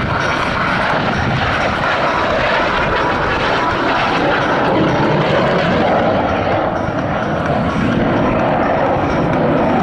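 F-86 Sabre jet fighter flying a display, its turbojet engine a loud, steady rushing noise.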